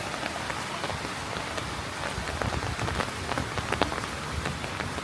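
Rain falling steadily: a constant hiss dotted with many sharp taps of drops striking close by, one louder tap a little before four seconds in.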